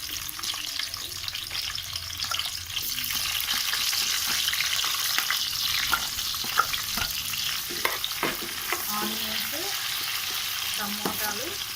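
Chopped onions sizzling in hot oil with tempering seeds in a pan, with a steady hiss and scattered clicks and scrapes as they are stirred.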